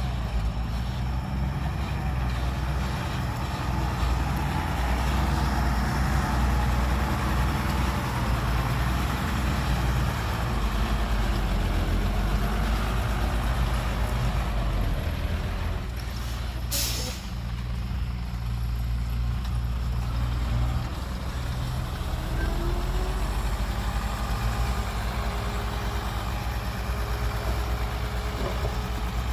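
Heavy dump truck's diesel engine running steadily, with one short hiss of air brakes a little past halfway.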